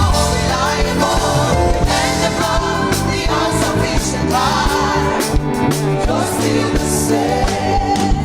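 Gospel praise music: a singer's wordless, sliding vocal runs over a band with a steady bass line and drums.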